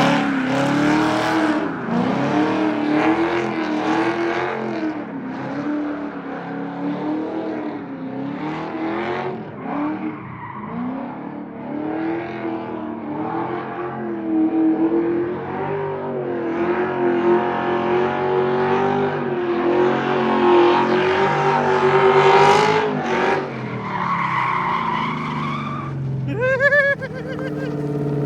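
Ford Mustang S197 drifting: the engine revs up and down again and again under throttle while the tyres squeal and skid.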